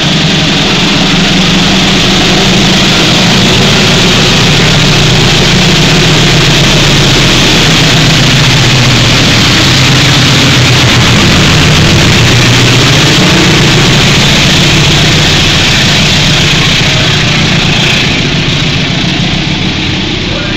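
Diesel locomotive running past close by on the station track, a loud, steady engine note that swells to its loudest about halfway through. Near the end the passenger coaches roll past and the sound eases off.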